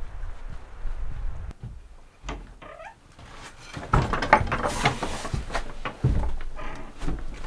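Scattered wooden knocks and handling clatter, with one short wavering squeak about two and a half seconds in and a busier stretch of rustling and knocking in the second half.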